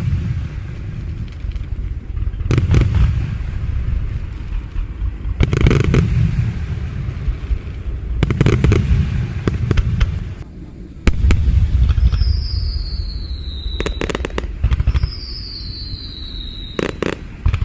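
Fireworks display: aerial shells bursting one after another in deep booms, each followed by crackling. Near the end a high whistle falling in pitch sounds three times, about every two and a half seconds.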